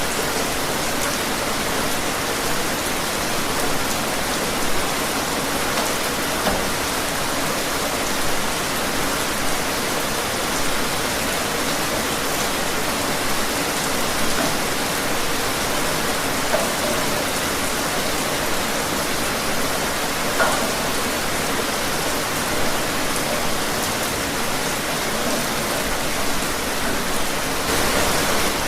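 Steady rain falling outdoors, an even hiss with scattered individual drops ticking on surfaces.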